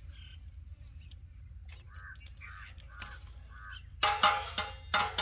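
A bird calls four times in quick succession over a low rumble of wind on the microphone. About four seconds in, a loud run of sharp, rapid clicking beats begins.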